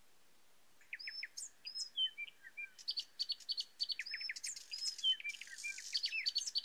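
Birds chirping and twittering: a busy run of short, quick calls and whistled notes, some falling in pitch, starting about a second in.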